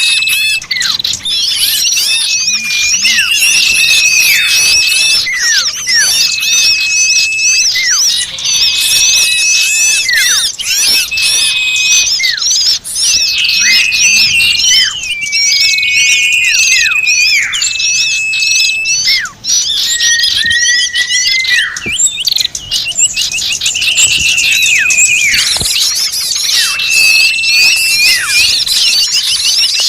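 Commotion of many small birds calling at once: dense, overlapping rapid chirps and squeaks, with repeated high held whistles that fall away sharply at their ends. It is a bird-lure call recording of noisy, agitated small birds, used to draw other small birds in.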